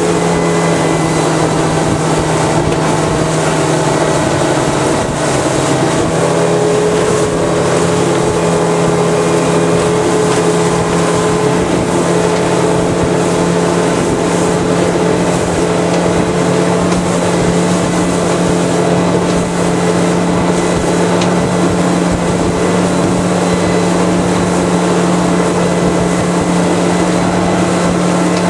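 A 60 hp outboard motor running steadily under way, holding an even pitch, with water and wind hiss behind it.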